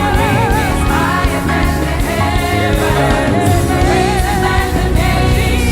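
Live gospel praise-and-worship music: sung vocal lines with vibrato over a full band with a steady beat.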